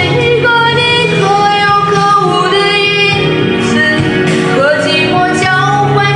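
A woman singing a love ballad over backing music, her voice gliding between held notes.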